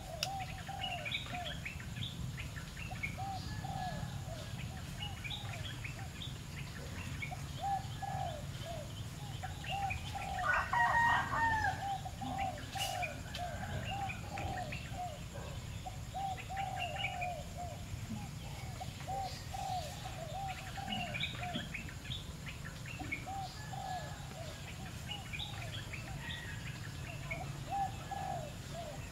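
Birds calling: a low cooing call repeated over and over, short high chirps scattered through, and a louder, fuller call about ten seconds in.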